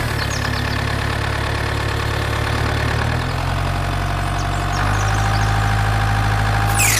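Steady engine idling sound for a toy bulldozer, its low drone stepping to a slightly different pitch about three seconds in and again near five seconds. A quick falling whoosh comes at the very end.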